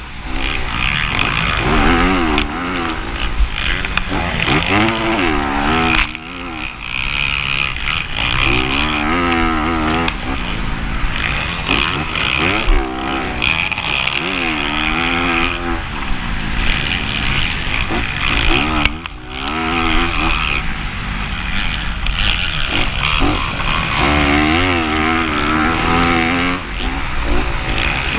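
Motocross dirt bike engine revving up and dropping off again and again as it is ridden hard, with the pitch rising and falling every second or two, over a steady low rumble.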